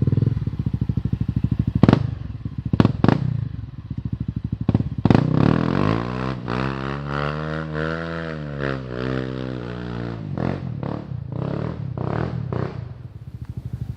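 Off-road motorcycle engine running and blipped, with several sharp knocks and scraping clatter in the first few seconds, then revved up and back down over about four seconds in the middle.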